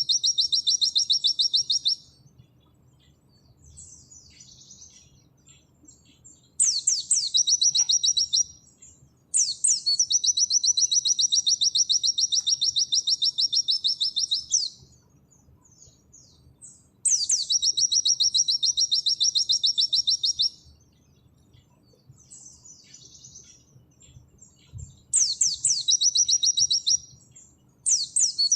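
White-eye (pleci) singing its rapid 'nembak' song: a run of long, very fast high trills, each opening with a quick downward sweep and lasting two to five seconds. Soft twittering fills the gaps between them.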